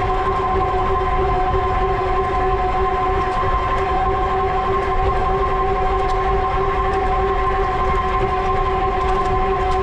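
Electric bike hub motor whining steadily at cruising speed, several fixed tones held without change. Under it, a steady low rumble from knobby fat tires rolling on the pavement.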